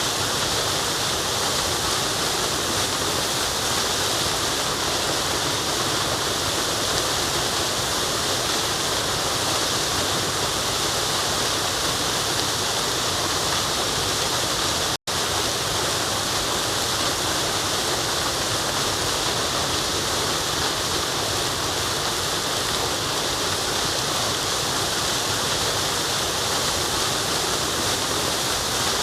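Waterfall: a steady, even rush of falling water with a high hiss, cut by a split-second dropout about halfway through.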